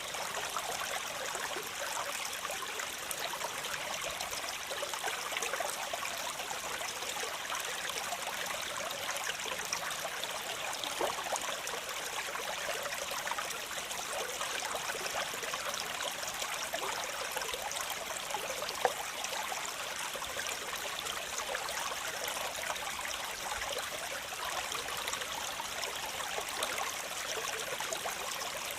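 Waterfall: water falling and splashing steadily, an even rush full of small splashes and trickles, with one slightly louder splash about two-thirds of the way through.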